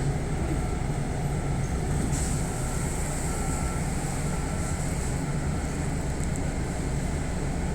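Steady low drone of a halted electric commuter train car's running equipment. A faint short high beep repeats about once a second and stops about five seconds in.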